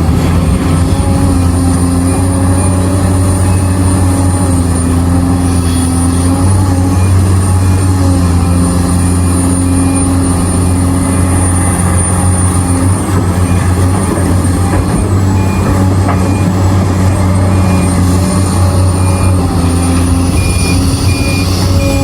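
Heavy diesel engines of mining excavators and dump trucks running steadily under load, a loud continuous low drone. A faint high beep repeats at an even pace in stretches.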